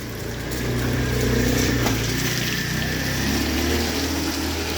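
A motor vehicle's engine running close by on a wet street, growing louder in the first second and then holding steady, over the even hiss of falling rain.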